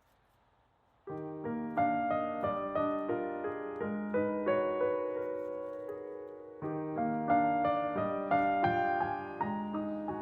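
Background piano music: after about a second of near silence, a slow melody of ringing piano notes begins, and a new phrase starts about two-thirds of the way through.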